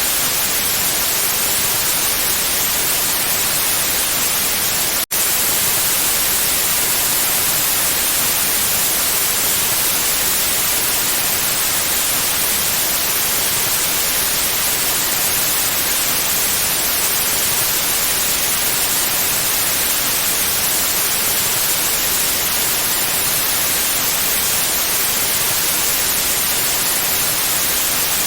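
Steady pure white noise, an even hiss with no tones or rhythm, broken once by a momentary dropout about five seconds in.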